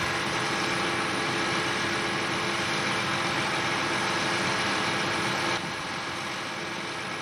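John Deere 8R-series tractor diesel engines running steadily as they pull moldboard plows, a continuous drone. The sound steps down suddenly in loudness, mostly in its upper range, about five and a half seconds in, then carries on evenly.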